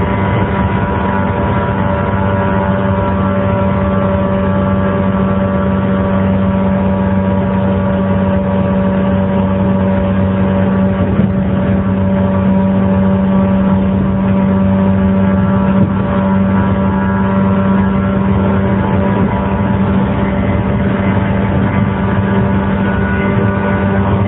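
JR 115 series electric train's DC traction motors running at a steady speed, a hum of several steady tones over wheel-on-rail rumble.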